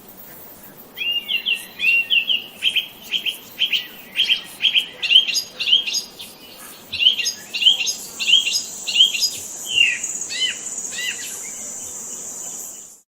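A songbird singing a long run of quick chirps, about three a second, each sweeping up in pitch. About seven seconds in, a steady high-pitched buzz joins and holds until everything cuts off abruptly near the end.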